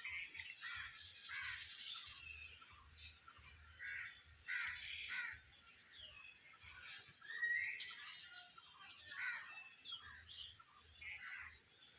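Birds calling in a string of short, irregular calls and chirps, over a steady high-pitched hiss.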